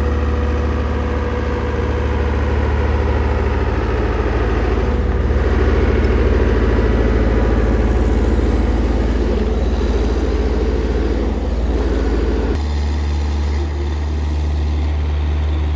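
A heavy vehicle engine running steadily at low revs, a deep even hum whose tone shifts abruptly about twelve seconds in.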